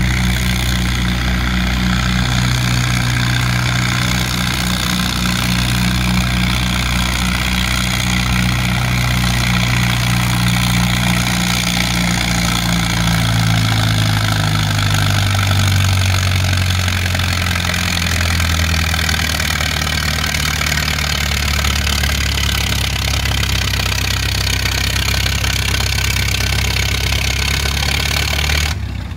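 Antique farm tractor engine running hard under load while pulling the sled, its engine speed sinking about halfway through and then holding lower.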